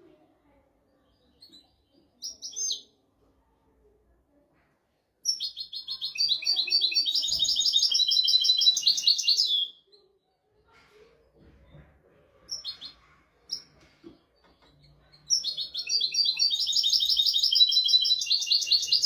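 European goldfinch singing: two long, rapid twittering song phrases of about four seconds each, with a few short call notes before and between them.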